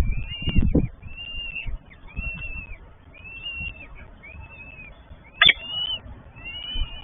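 Peregrine falcon chicks calling in a steady series of high, arched cheeps, about one a second, with one sharper, louder note about five and a half seconds in. Wind rumbles on the microphone in the first second.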